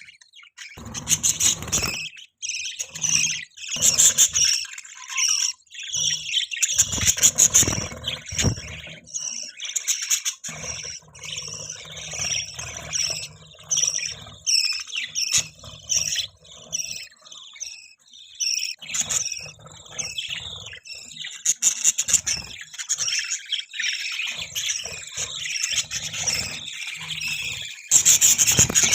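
Budgerigars chattering and warbling in rapid runs of short, high chirps, the courtship chatter of a mating pair.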